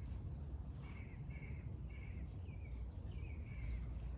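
A bird calling repeatedly in short, evenly spaced notes, roughly two a second, over a steady low background rumble.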